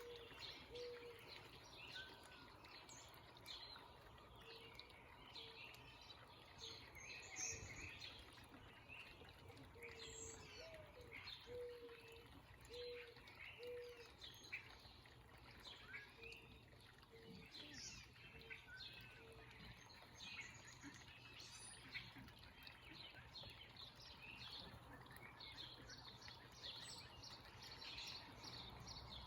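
Small birds chirping and calling over and over, with a run of short, low, evenly spaced hooting notes from another bird, all faint over a steady background rush.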